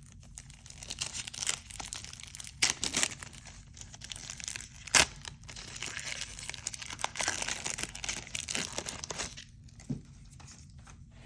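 A 1990 Score football card pack wrapper being torn open and crinkled by hand, with a couple of sharp crackles about three and five seconds in.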